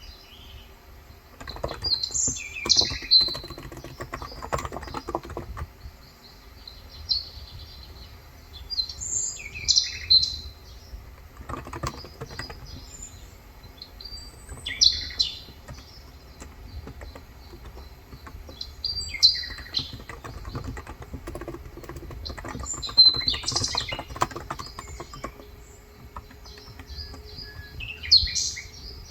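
Birds chirping in short, high calls every few seconds, with spells of typing in between on a Cox Endeavor electro-capacitive keyboard with 35 g switches.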